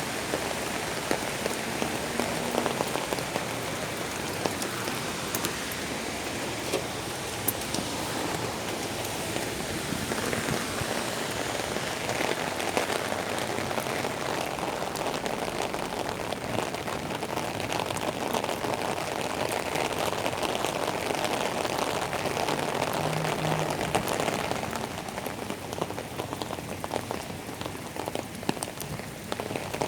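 Steady rain falling, with many close drops ticking sharply through it; it eases slightly near the end.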